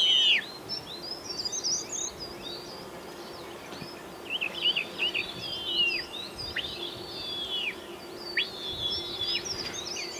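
Birds calling: many short, high whistled chirps that slide downward, overlapping one another throughout, the loudest right at the start, over a faint steady hum.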